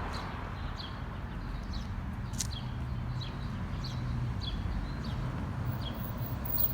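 A small bird chirping over and over, short high falling chirps about two or three a second, over a steady low hum, with one sharp click about two and a half seconds in.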